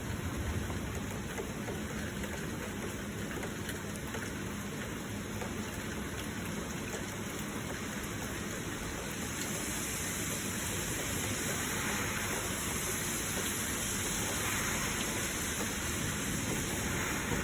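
Heavy rain falling with flowing water, a steady rushing hiss that grows a little brighter about halfway through.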